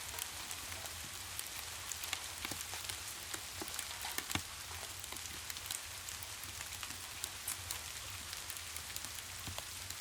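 Steady rain hissing, with many short sharp crackles and pops scattered through it from a fireplace, over a low steady rumble.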